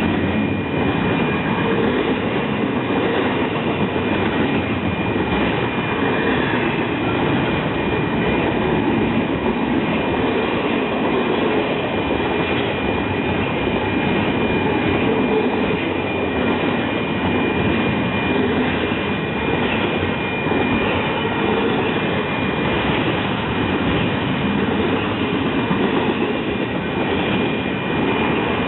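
Train cars rolling past on the track: a steady, continuous rumble of wheels on rail, with a thin, steady high-pitched tone above it throughout.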